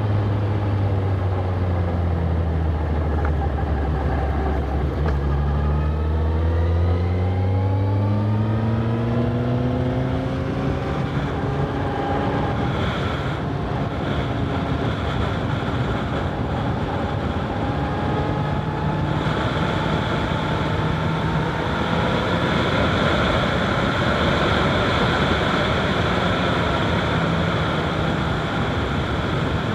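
Honda CBR1000RR SP's inline-four engine under way. Its note climbs steadily for several seconds as the bike accelerates, then settles into a steady cruise. Wind noise on the microphone grows stronger in the second half.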